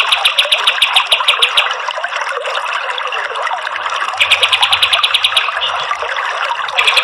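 Kapas tembak songbird singing its rapid-fire song, trains of fast repeated high notes, about a dozen a second, in two bursts: one at the start and one in the middle. The song sits over a steady rush of running water.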